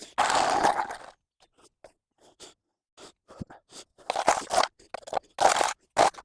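Spade scraping and crunching through mud and wet leaves on a path. There is one long scrape at the start, then a string of short scrapes that come louder and faster from about four seconds in.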